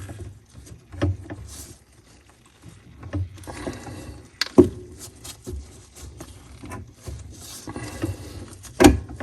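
Metal tool clicks and knocks of an Allen wrench gripped in pliers working a faucet's set screw, with low handling rumble; a sharp clink about four and a half seconds in and another near the end.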